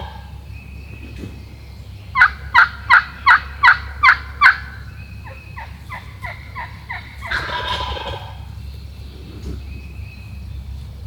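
Eastern wild turkey sounds: a loud series of seven evenly spaced yelps, then a softer run of yelps, then a gobbler gobbling about seven seconds in. A steady low rumble of wind runs underneath.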